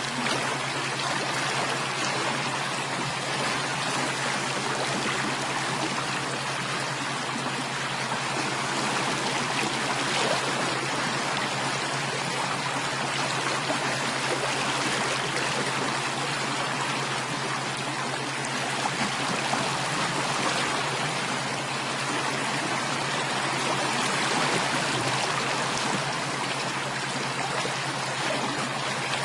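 Running water of a stream flowing steadily, a continuous even rush and trickle.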